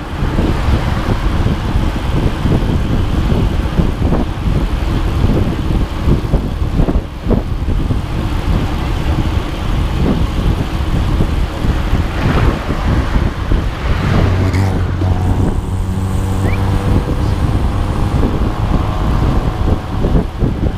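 Motor vehicle running, a dense rumble with rattling throughout; about two-thirds of the way in a steady engine hum of even pitch comes up over it.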